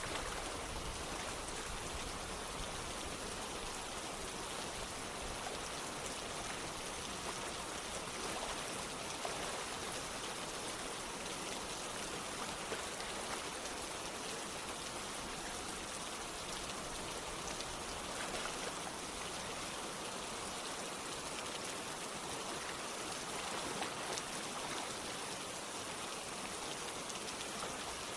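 Steady rain falling together with running water: a continuous, even hiss with scattered faint drop ticks, unchanging throughout.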